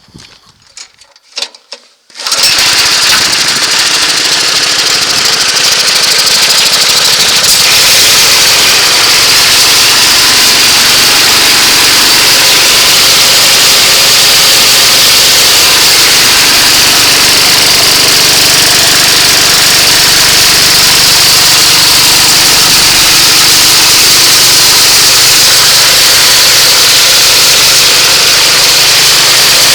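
Gas-engine portable twin-tank air compressor (Puma PUK5508G): a few clicks, then about two seconds in the engine starts and runs steadily, driving the pump.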